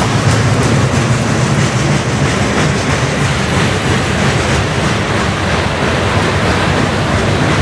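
Freight train of loaded lumber flatcars rolling past: a steady loud rumble of steel wheels on rail, with clickety-clack as the trucks cross rail joints.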